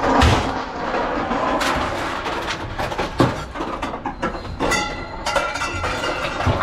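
Metal clattering and clanking, with several sharp knocks and a short high metallic squeal about five seconds in.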